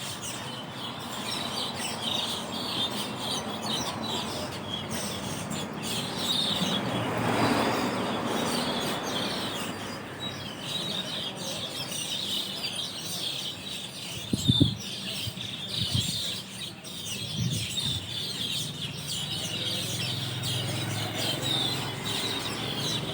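A large flock of Asian glossy starlings chattering without pause from their roost tree, a dense mass of overlapping high calls. A broad rush of noise swells and fades about a third of the way in, and a few low thumps come just past the middle.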